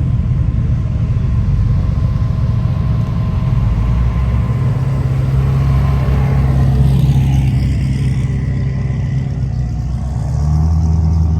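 A car engine running with a steady deep hum; its pitch shifts slightly near the end.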